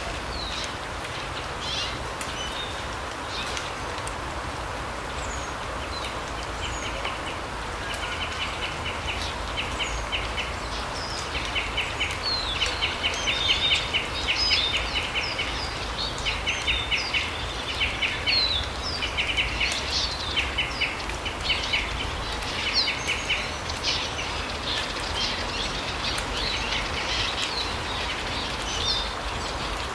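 Small birds calling: short high chirps and repeated rapid rattling trills, busiest from about eight seconds in until near the end, over a steady background hiss.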